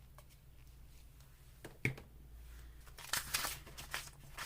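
Paper pieces being handled on a craft table: a sharp tap a little under two seconds in, then paper rustling and shuffling through the last second and a half, over a low steady hum.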